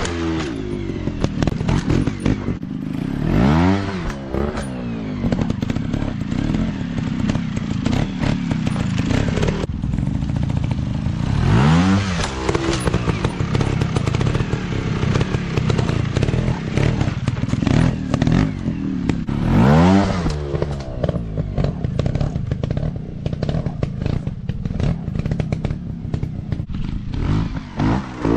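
Dirt bike engines running hard and revving, the pitch sweeping sharply up and back down several times, with constant rattling clatter.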